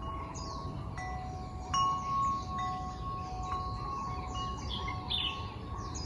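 Wind chimes ringing with long, sustained tones, struck afresh about a second in and again just before two seconds, over a steady low rush of wind. Short high falling chirps of birds repeat throughout.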